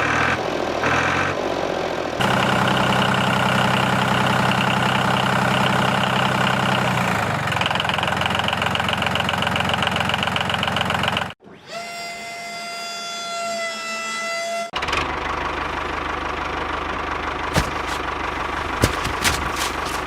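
Steady engine-like running hum that changes character abruptly a few times. About eleven seconds in it cuts out for about three seconds of a different, slightly wavering pitched tone, then comes back, with a few sharp clicks near the end.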